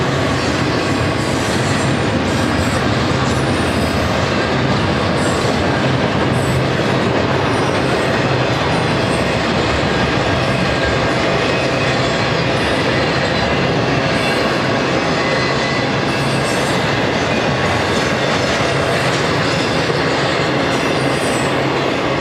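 A long intermodal freight train's cars, double-stack container cars and trailer-carrying flatcars, rolling steadily past: continuous noise of steel wheels on rail, with light clicking.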